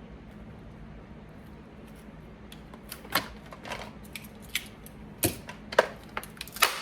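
Hands handling a small tool set and its packaging: a quiet stretch with a low steady hum, then from about three seconds in a run of irregular sharp clicks and light knocks of small hard parts.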